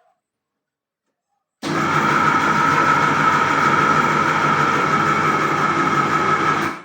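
Electric yam-pounding machine's motor switching on about a second and a half in and running steadily with a high whine while it pounds boiled yam, then cutting off just before the end.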